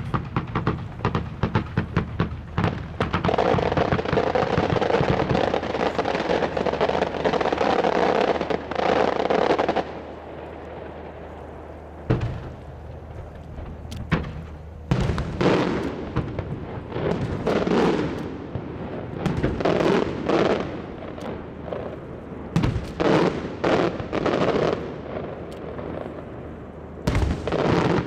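Aerial fireworks display. It opens with a rapid string of sharp bangs, then several seconds of dense, continuous rushing noise. After a quieter lull comes a run of separate shell bursts and bangs.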